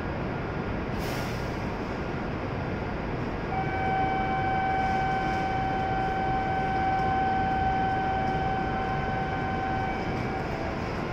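A stationary E7 series Shinkansen train standing at a platform, with a steady hum and hiss. From about three and a half seconds in, a steady whine with several overtones comes in and holds for about six seconds before fading out.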